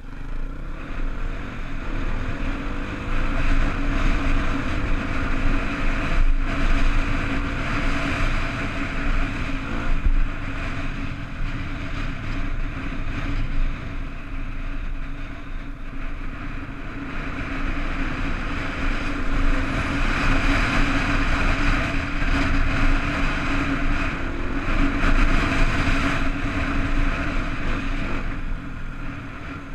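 Honda dirt bike engine running while riding, its revs rising and falling, with wind noise on the microphone.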